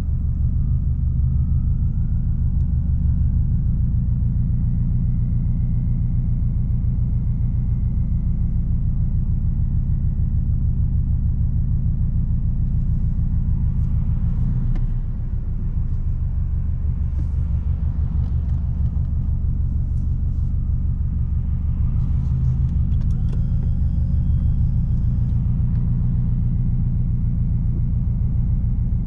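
Straight-piped 2006 Subaru WRX STI's turbocharged flat-four exhaust droning deep and steady while driving, dipping briefly about halfway through. A few faint clicks come through in the second half.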